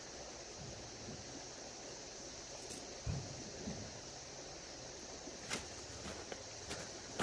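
Steady rushing of a running creek, with a few faint clicks and knocks.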